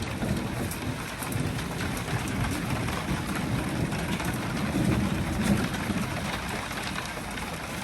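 Steady rain falling, with a low rumble of distant thunder that swells through the middle and then fades.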